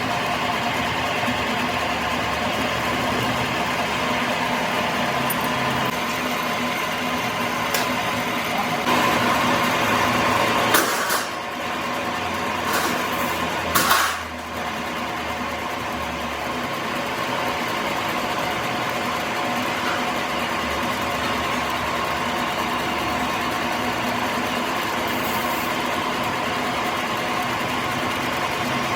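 A machine motor running steadily with an even hum. Between about eight and fourteen seconds in there are a few sharp clicks and knocks, and the sound changes briefly before settling back.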